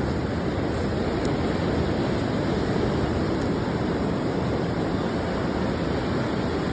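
Ocean surf breaking on the beach, a steady rushing wash of waves, mixed with wind on the microphone.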